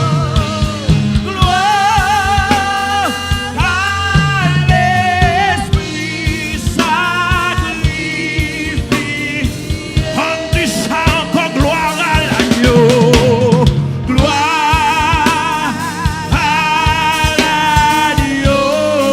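Church worship music: a melody sung with vibrato over a band with a drum kit, keeping a steady beat.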